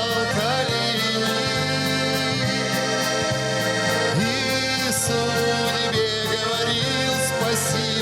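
Accordion playing an instrumental passage of a Russian song, with a bass line and light ticking percussion beneath.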